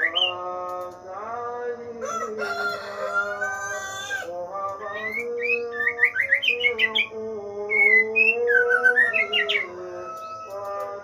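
Caged songbirds chirping in short quick notes over background music with long held tones. A rooster crows once, about two to four seconds in.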